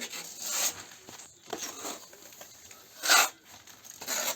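Steel painter's spatula spreading tile-adhesive plaster across a wall, a series of wet scraping strokes, about four of them, the loudest about three seconds in.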